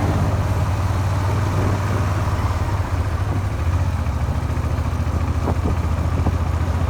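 Suzuki SV400 motorcycle engine running steadily with a low, even drone. It runs after a makeshift crankshaft repair done with a file, and the owner says it knocks and rattles.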